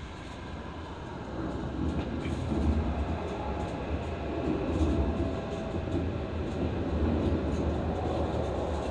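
Hokkaido Shinkansen train running at speed, heard from inside the car: a steady rumble of wheels and running gear on the track that grows louder about a second and a half in, with a faint whine above it.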